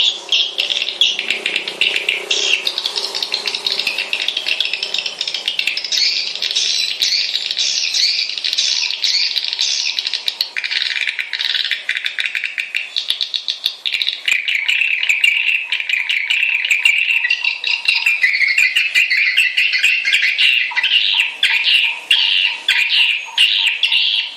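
Swiftlets chattering: a dense, unbroken twitter of rapid high chirps. It is a swiftlet lure and roosting call, the kind played to draw swiftlets into a nesting house.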